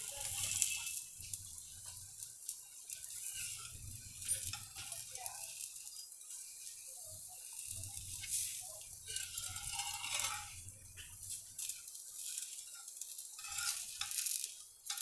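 A puda (sweet pancake) frying in ghee on a nonstick tawa over a low flame, giving a faint steady sizzle with small crackles. Near the end a spatula scrapes under the pancake's edge.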